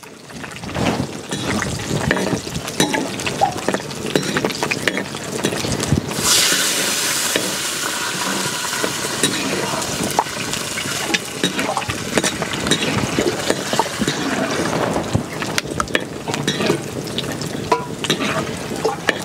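Cashew nuts frying in hot oil in a clay pot, sizzling, with a metal slotted spoon scraping and clicking against the pot as they are stirred. About six seconds in, a louder hiss sets in as water is poured into a second clay pot, then fades.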